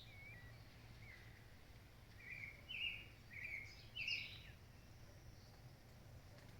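Birds calling in the countryside: a run of short chirping notes, clustered about two to four and a half seconds in, over a faint steady low rumble.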